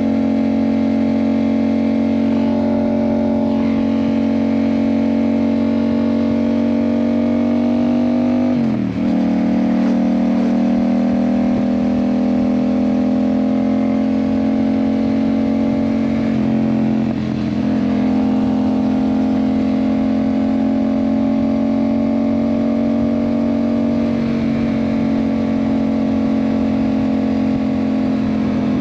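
Yamaha MT-07's parallel-twin engine running through an IXIL aftermarket exhaust while riding at a fairly steady pace. The engine note dips sharply and picks back up about nine and seventeen seconds in, with a smaller dip near the end.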